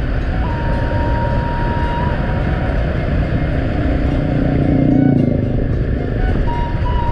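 A vehicle on the move: engine running under heavy wind and road noise, swelling briefly about five seconds in.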